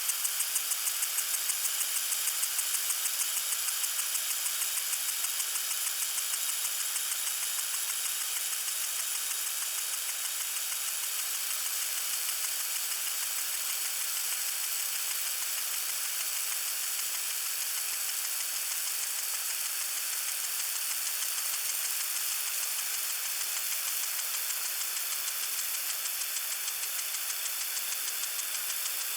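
Water sprinkler spraying: a steady high hiss with a fast, even pulsing running through it, a little stronger in the first few seconds.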